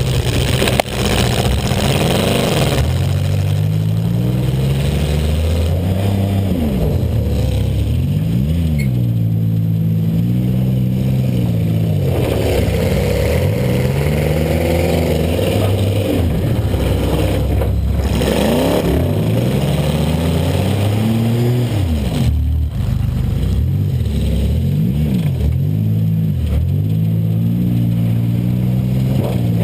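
A Buick LeSabre's V6 engine revving up and falling back again and again as the car accelerates and backs off, heard from inside the cabin. It is broken by two hard collision bangs, one about a second in and another about two-thirds of the way through.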